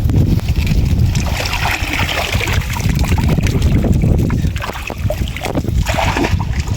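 Wind buffeting the microphone in a heavy low rumble, with bursts of splashing water over it.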